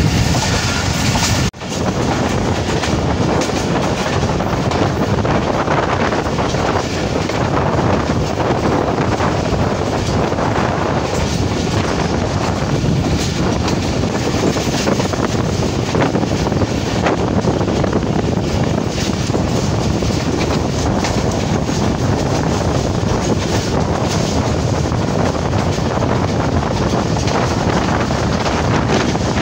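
Passenger train running along the line, heard from inside the carriage: a steady rumble of the wheels on the rails. The sound breaks off briefly about a second and a half in.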